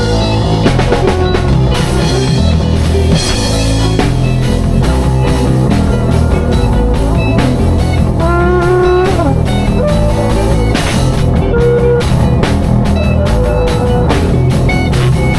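Live improvised jam: a drum kit and guitar playing together, loud and dense, with the drums keeping a steady beat. About eight seconds in, a lead line bends its notes up and down.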